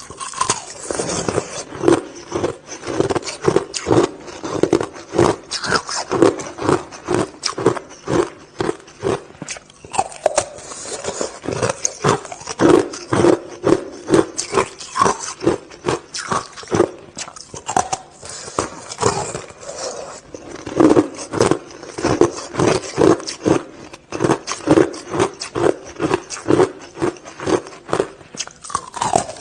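Hard shaved ice being crunched and chewed close to the microphone: dense crackling of breaking ice over a rhythmic chomping, a few bites a second in runs.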